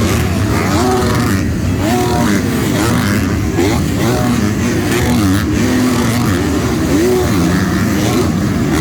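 Several motocross bikes racing, their engines revving up and down in overlapping rising and falling whines as the riders work the throttle.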